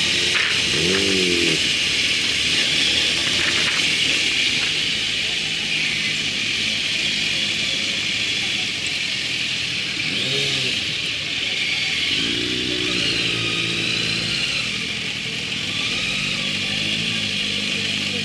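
Motorcycle engine running under way, its pitch rising as it revs up a few times and then holding steadier, over a steady rush of wind noise.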